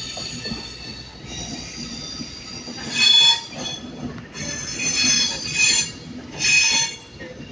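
Avanti West Coast Class 390 Pendolino electric train squealing as it moves through the station. A steady high-pitched squeal runs under several louder bursts of squealing.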